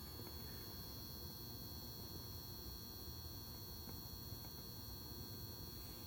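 Faint steady low electrical hum with a thin, steady high-pitched whine above it.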